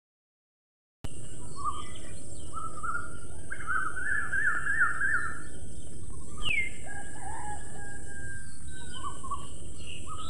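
Several birds chirping and singing over a steady background hiss, with a fast run of repeated notes and one falling whistle. The birdsong starts about a second in, after silence.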